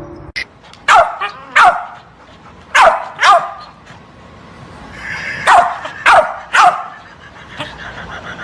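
A dog barking: seven short, sharp barks that come in quick groups of two, two and three, each bark dropping in pitch.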